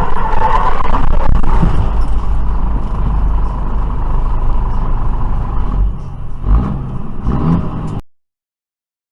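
Vehicle engine and road noise, a loud steady rumble, with a few rising tones near the end; it cuts off abruptly about a second before the end, leaving silence.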